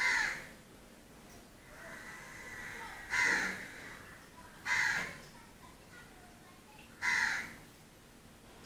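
A bird calling outside: four short calls a few seconds apart.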